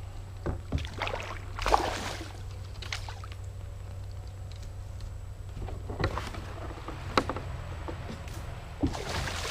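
Movement in a fishing kayak on the water: a few sharp knocks and short swishes against the hull, the loudest about two seconds in, over a steady low rumble.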